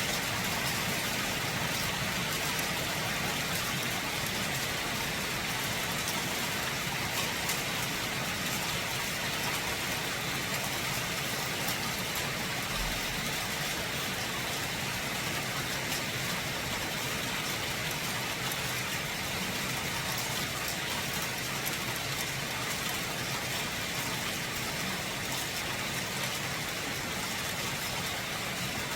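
Steady rain falling: an even hiss with many small drop ticks throughout.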